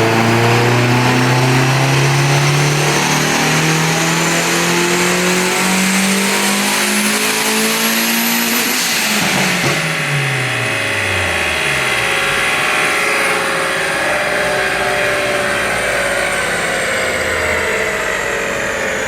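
Turbocharged Hyundai Elantra engine making a full-throttle pull on a chassis dyno: the engine note climbs steadily for about nine seconds, then the revs fall away as the car coasts down. A high whine falls slowly to the end.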